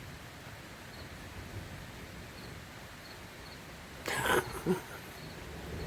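Steady rain hiss during a thunderstorm, with two short vocal calls about four seconds in.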